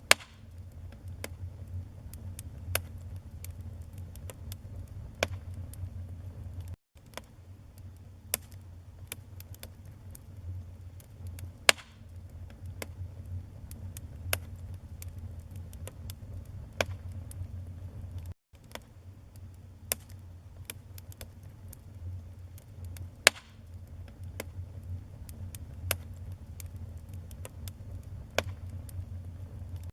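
Wood fire burning with a steady low flame rumble and irregular crackles and pops, a handful of them sharp and loud. The sound cuts out to silence for an instant twice.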